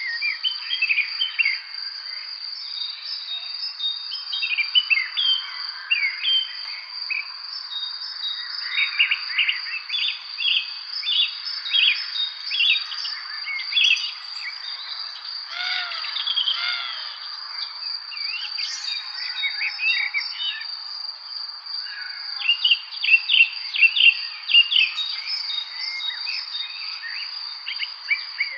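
Several songbirds chirping and singing in quick, short notes, over a steady high-pitched insect trill.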